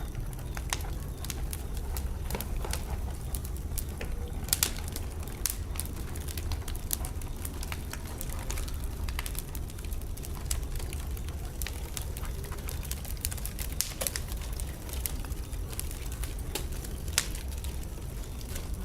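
Wood fire burning in a fireplace: irregular crackles and sharp pops over a steady low rush of the flames, with a few louder pops scattered through.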